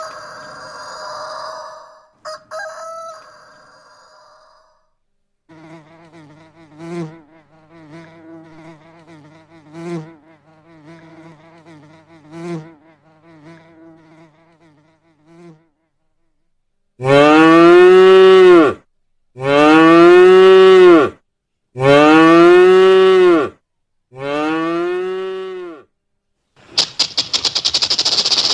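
Cattle mooing: four loud calls, each about a second and a half long, with the pitch rising then falling. These come after a quieter, drawn-out low call that swells every two to three seconds. A rooster's crow trails off in the first few seconds, and a buzzing with rapid clicks starts near the end.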